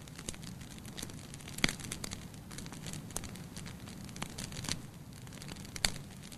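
Wood fire burning in a fireplace: a steady low hiss with irregular crackles and pops, the sharpest about a second and a half in and near the end.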